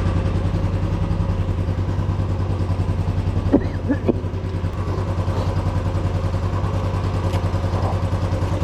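Motorcycle engine running steadily with an even, rapid pulse and no revving.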